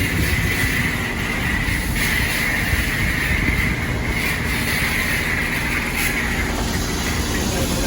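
Self-service car wash spray wand spraying onto a car: a steady hiss over a low rumble, the hiss dipping briefly twice.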